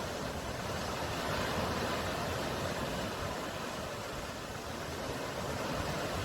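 Steady wash of ocean surf, swelling slightly about two seconds in and easing a little later on.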